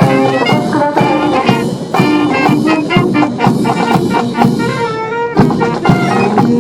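A brass band playing, with brass instruments carrying the tune over steady drum hits.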